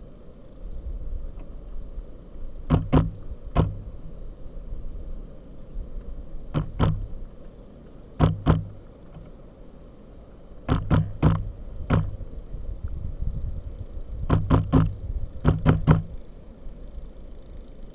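Pileated woodpecker pecking. Its bill strikes in sharp knocks, in short clusters of two to four every couple of seconds, over a steady low rumble.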